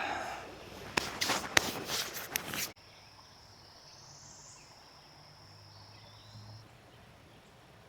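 A quick run of sharp clacks and knocks, cut off abruptly a little under three seconds in. Then a faint insect's steady high trill for about four seconds.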